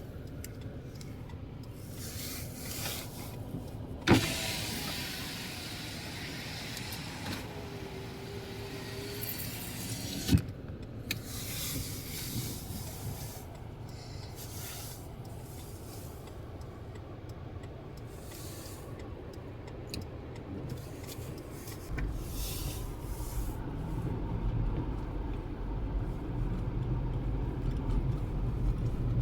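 Car cabin noise while driving slowly on a snow-covered road: a steady low rumble and hiss, with two sharp knocks and a deeper, louder rumble setting in about three-quarters of the way through.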